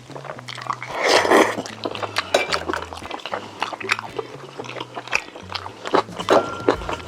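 Close-up chewing and eating sounds of Korean braised chicken: rapid wet mouth clicks and smacks, with one louder wet rushing burst about a second in.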